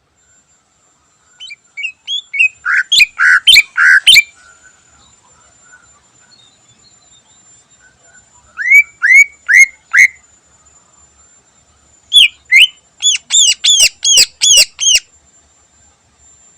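Green leafbird (cucak ijo) singing in three loud bursts of rapid, sweeping whistled notes, each burst a string of repeated notes a fraction of a second apart, with short pauses between them. A faint steady high whine sits under the song.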